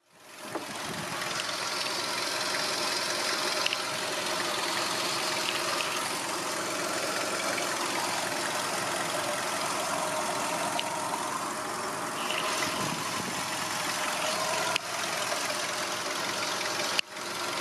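Volkswagen Golf V's 1.6-litre 102 hp petrol engine idling steadily, heard close up from above the open engine bay.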